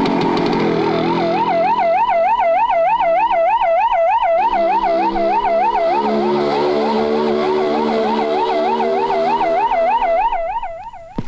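Police siren sound effect warbling up and down about three times a second over a lower steady drone, fading away near the end.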